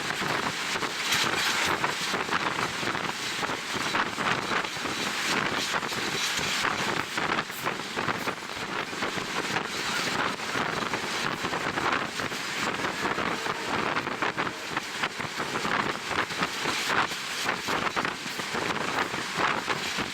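Wind buffeting the microphone of a camera on a moving train, a steady rushing hiss that flutters constantly.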